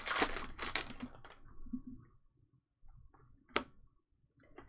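Wrapper of a trading-card pack crinkling loudly for about the first second as the pack is handled and opened, then a single sharp click about three and a half seconds in.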